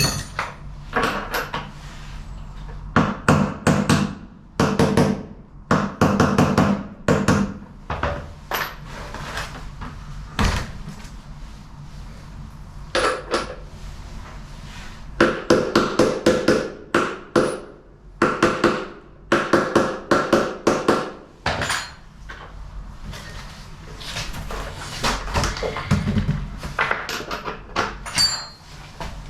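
Metal knocking and clanking in repeated clusters of sharp, ringing strikes, as tools work on washing machine parts.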